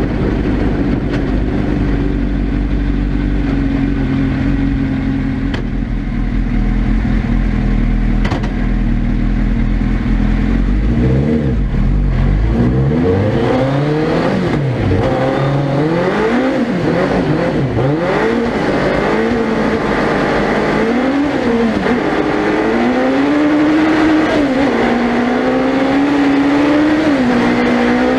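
Suzuki Hayabusa 1300cc inline-four motorcycle engine in a four-wheel-drive ice-racing prototype, heard onboard: a steady low engine note at first, then from about eleven seconds in revving up and down again and again as the throttle is worked.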